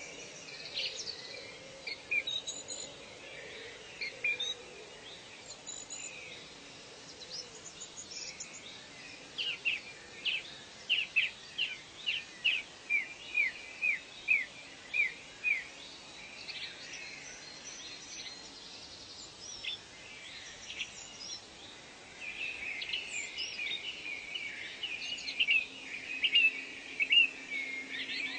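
Birds singing in a forest ambience: from about ten seconds in, one bird gives a run of about a dozen short downward-sliding whistled notes, about two a second. Near the end, rapid chattering calls take over.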